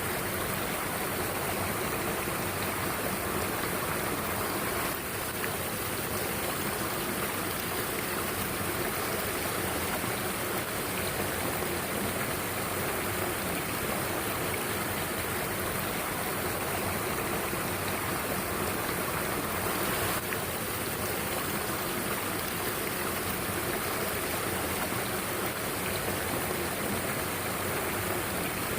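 Mountain stream water rushing steadily over rocks: a continuous, even noise of flowing water.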